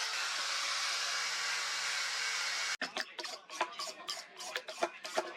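An electric power tool running steadily, cut off abruptly about three seconds in. Quick, irregular hand-filing strokes on steel follow.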